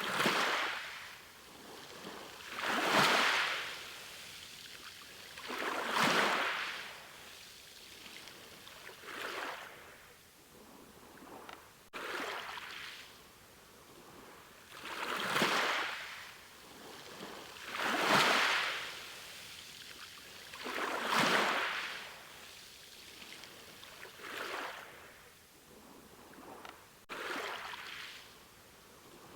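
Ocean waves breaking and washing in, a surge of surf about every three seconds over a steady background hiss.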